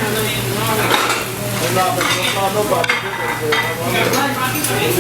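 Busy diner din: indistinct overlapping voices with scattered clinks of dishes and cutlery over a steady low hum.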